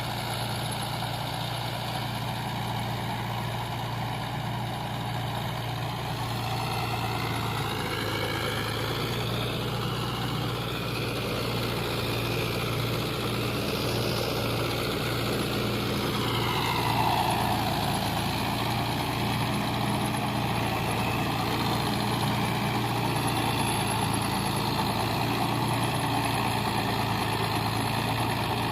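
Tractor engine running steadily under a low, constant hum. Its pitch climbs about seven seconds in and falls back around seventeen seconds in.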